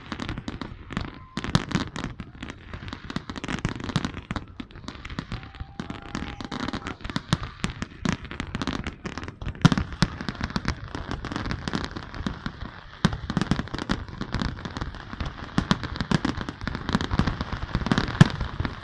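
Fireworks going off in a dense, continuous barrage of bangs and crackling pops with no pause.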